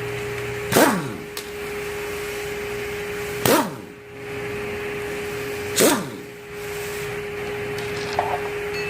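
Three sharp knocks, a couple of seconds apart, each with a short falling ring, as tools and parts are handled while a Mazda 13B rotary engine is taken apart. A steady hum sounds underneath.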